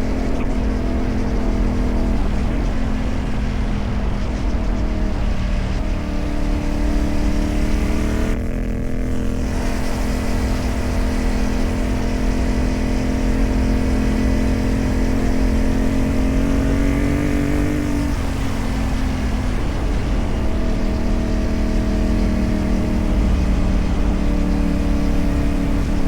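CFMoto 450MT parallel-twin engine running through a modified exhaust while riding on dirt tracks, with a dense low rumble underneath. Engine speed rises about six seconds in and steps up again about eight and a half seconds in, then holds steady. It drops about eighteen seconds in and climbs again a couple of seconds later.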